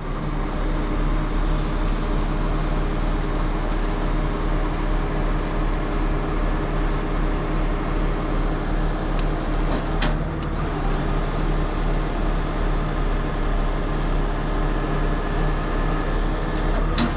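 Heavy truck's diesel engine running steadily at idle, an even drone, with a single short click about ten seconds in.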